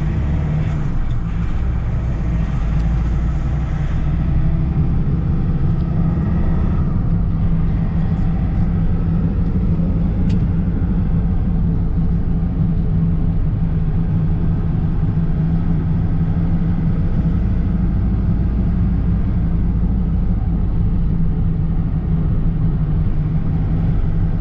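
Engine and road noise heard from inside a vehicle's cab while driving: a steady low rumble with an even hum.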